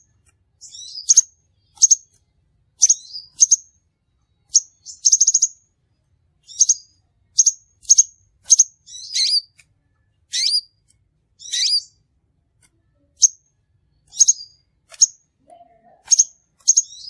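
Crimson sunbird calling: sharp, high, thin chip notes repeated irregularly at intervals of about half a second to a second, with a few short rapid trills.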